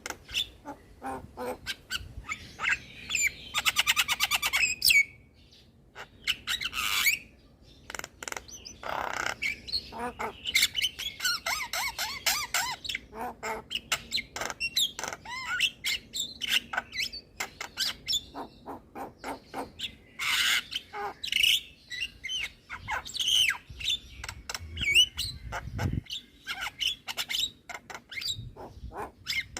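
Javan myna (jalak kebo) singing: a continuous, varied stream of harsh squawks, clicks and whistled notes, with a fast rattling run about three seconds in.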